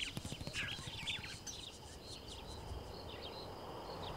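Birds chirping in short, swooping up-and-down calls, quick and frequent at first and then sparser. A steady, pulsing insect trill runs behind them, with a few soft low thumps right at the start.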